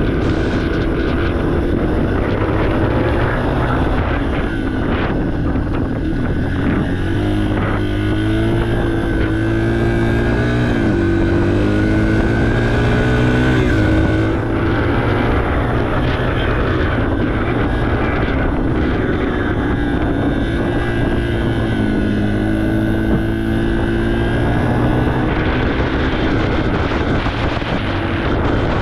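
Yamaha TTR 230 trail bike's single-cylinder four-stroke engine running while riding, its pitch climbing and dropping several times as the throttle is worked and gears change, with wind rumbling on the microphone.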